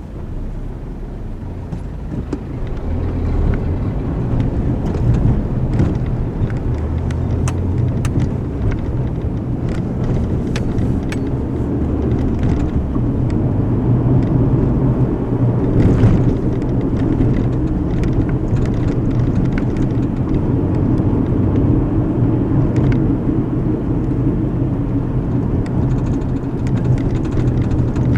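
Car road noise heard from inside the cabin: a steady tyre and engine rumble that grows louder over the first few seconds, then holds, with a few light clicks.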